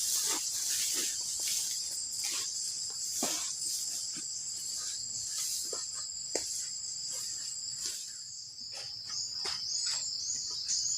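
Steady high-pitched trilling of forest insects, crickets, with scattered short rustles mixed in and a run of quick repeated chirps near the end.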